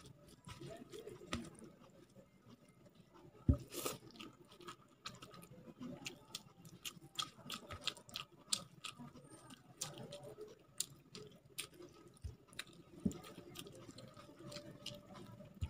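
A person eating rice with rasam and curry by hand: wet chewing with many short smacking clicks, and fingers squishing rice on a steel plate. A single louder knock comes about three and a half seconds in.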